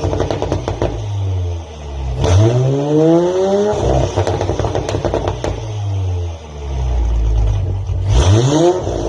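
Tuned performance car engine revved hard in blips, its pitch climbing fast about two seconds in and again near the end, with rapid popping and crackling from the exhaust as the revs fall away in between.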